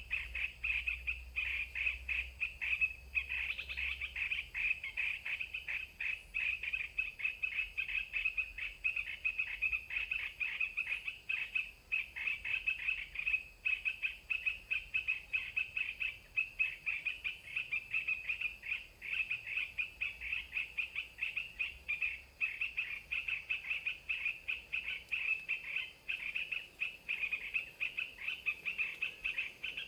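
Birds chirping in a quick, unbroken stream of high, short notes, several a second.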